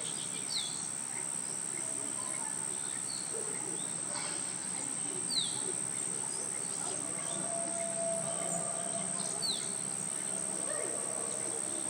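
Birds calling over a steady high insect drone: three short, sharp calls that sweep down in pitch, about four seconds apart, and scattered fainter chirps.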